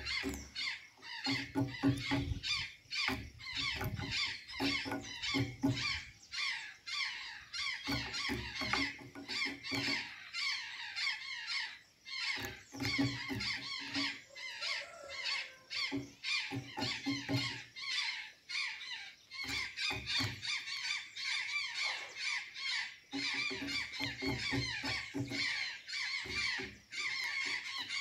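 Azure jays calling continuously, with rapid, squawking notes. Bursts of low, rapid tapping come and go several times.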